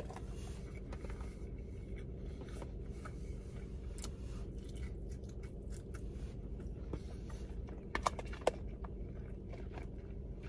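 Quiet chewing and mouth sounds, with a metal spoon scraping and clicking against a plastic container of rice, a few sharper clicks about four and eight seconds in. A steady low hum lies under it all.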